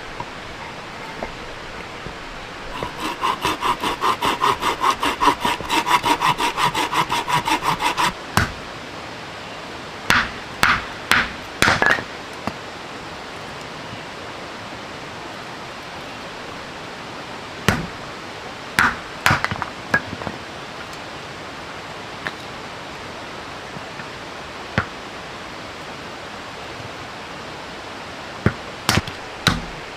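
A hand saw cutting wood with quick, even strokes for about five seconds, then scattered knocks of wood being handled. A steady hiss of rain runs underneath.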